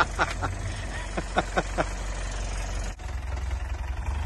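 Four-wheel-drive's engine running steadily at low revs as the vehicle crawls over a deep rut, with a quick run of short falling chirps in the first couple of seconds and the engine picking up near the end.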